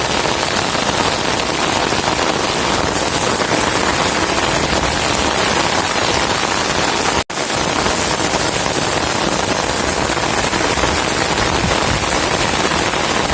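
Heavy storm rain pouring down, a loud, dense, steady hiss that cuts out for an instant about seven seconds in.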